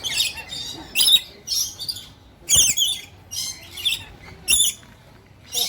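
Parrots giving a string of short, high-pitched chirps and squawks, one call about every half second to a second.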